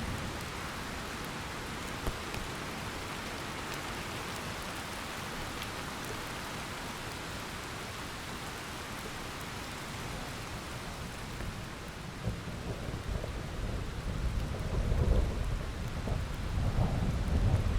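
Heavy rain falling steadily, with a single sharp drip or tap about two seconds in. Thunder rumbles in low about two-thirds of the way through and swells, loudest near the end.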